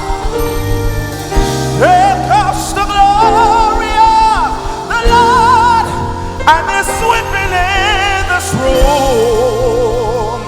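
Live gospel worship music: a solo voice sings long held phrases with wide vibrato over sustained keyboard chords and bass.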